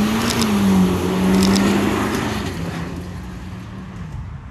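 Red Mitsubishi Lancer saloon's engine under acceleration as it drives past. Its pitch climbs, dips about half a second in, then holds steady while the sound fades as the car pulls away.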